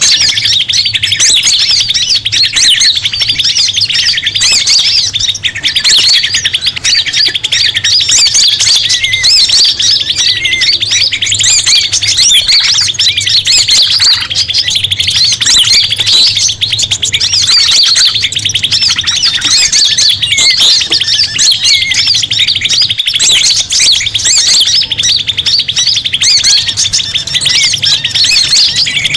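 A dense, continuous chorus of many small birds' chirps, trills and squawks with no pause, a 'ribut' (commotion) lure recording of the kind played to draw forest birds in.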